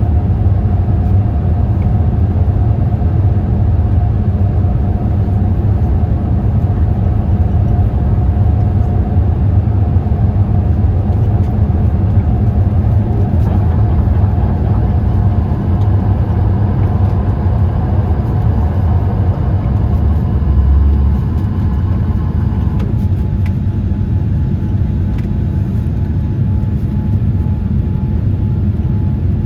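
Steady cabin noise inside a Boeing 787-8 in flight: a continuous low rumble of engines and airflow, with a faint steady whine that drops out about two-thirds of the way through.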